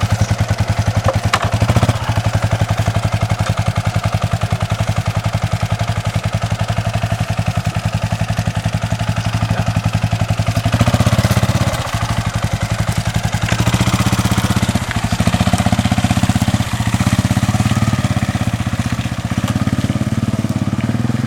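Dirt bike engine running steadily after being flooded in a puddle, freshly started and ticking over with an even beat, with a few short rises in revs from about halfway through.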